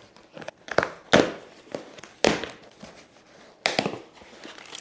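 A package being torn open by hand: a series of sharp rips and crackles, the loudest a little over a second in, with a pair more near the end.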